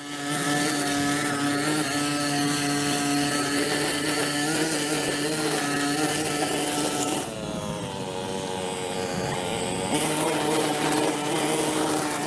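Small motor running steadily with a clear pitch. Its pitch and level dip about seven seconds in and rise back again about three seconds later.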